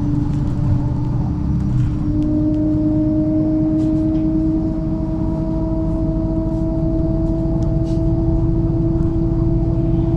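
MAZ-103 city bus heard from inside the cabin while under way: a steady low rumble with a whine that rises slowly in pitch from about two seconds in as the bus gathers speed. A few faint clicks.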